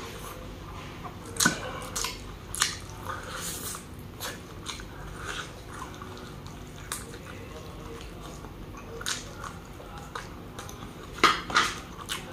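Close-miked chewing of dried-down mutton adobo, with irregular wet mouth smacks and clicks. A louder cluster of smacks comes near the end.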